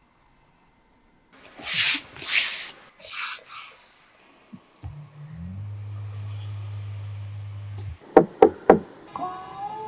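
Car fittings being handled: four short rubbing or sliding scrapes, then a small electric motor running steadily for about three seconds, then three sharp clicks in quick succession.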